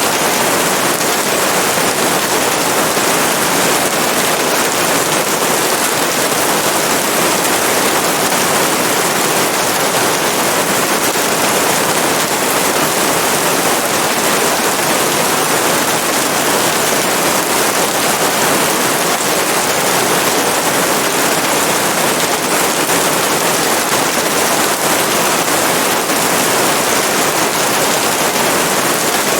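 Rain falling steadily, a dense, even patter with no pauses or thunder.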